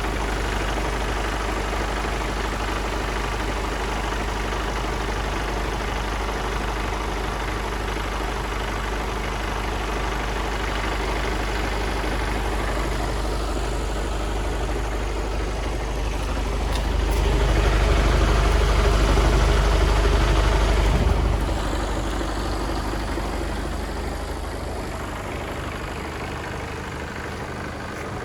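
Mercedes Actros 1842's 420 bhp Euro 6 straight-six diesel running at idle. It swells louder for about four seconds past the middle, then drops back abruptly and slowly fades.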